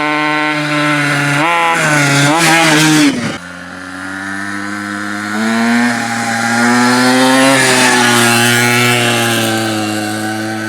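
Restored pocket bike's small engine running on a test run and being revved: the revs rise and waver about two seconds in, drop sharply near three seconds, then climb again and slowly ease off toward the end.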